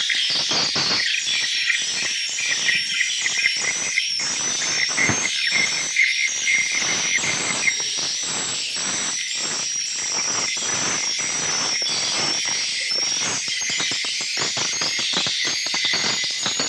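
A colony of swiftlets twittering inside a swiftlet nesting house: a dense, unbroken stream of high chirps and trills over rapid, irregular clicking.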